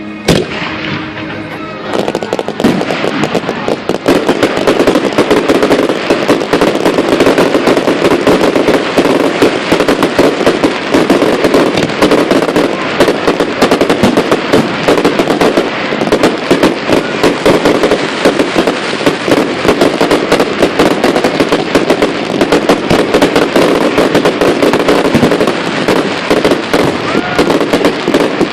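Fireworks display: one sharp bang, then from about two seconds in a dense, continuous barrage of rapid crackling bangs and pops that goes on without a break.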